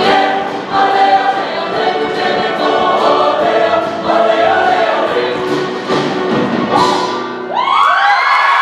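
Choir singing a sustained, many-voiced passage that breaks off about seven and a half seconds in, where audience applause and cheering start.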